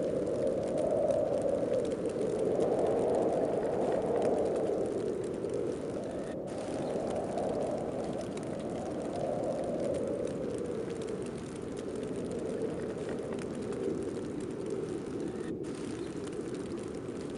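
Snowstorm wind blowing steadily, a low rushing that swells and eases in slow gusts every few seconds.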